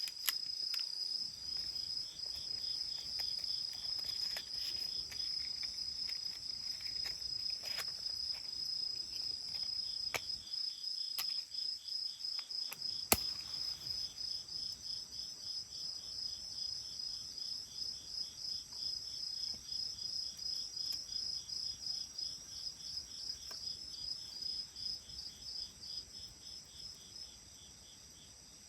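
Insect song: a high chirp in a steady run of pulses, a few a second, fading away near the end. A few sharp cracks stand out, the loudest about halfway through.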